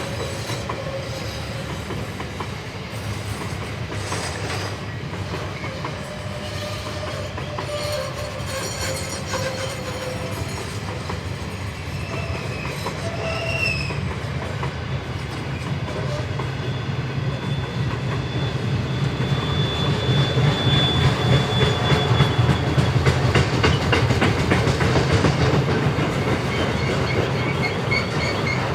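A train rolling past on the rails: a steady rumble with wheels squealing in short, high, thin notes now and then. The rumble grows louder through the second half.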